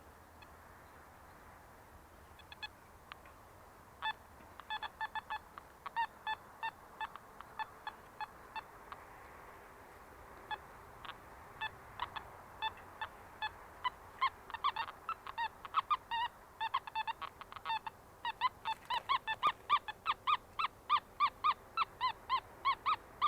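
Metal detector sounding target tones: a run of short, pitched beeps that start scattered and come faster and more evenly toward the end, as the coil is swept back and forth over a signal.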